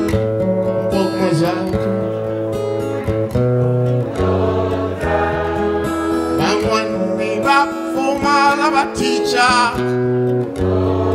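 Live acoustic guitar music with singing over a line of low bass notes; a voice holds long wavering notes near the end.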